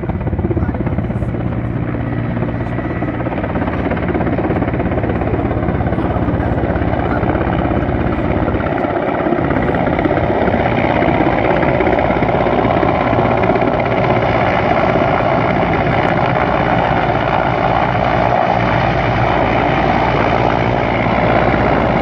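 Military rescue helicopter running steadily overhead, its rotor and engine noise growing somewhat louder in the second half.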